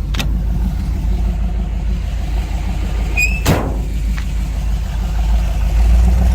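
The 350 cubic-inch ZZ4 small-block V8 crate engine of a 1955 GMC pickup running steadily with a low hum. One sharp click about halfway through.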